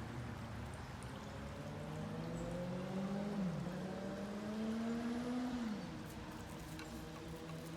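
A vehicle's engine pulling under acceleration: its pitch climbs, drops sharply about three and a half seconds in as it shifts gear, climbs again, then falls away near the six-second mark as the throttle eases, over steady road noise.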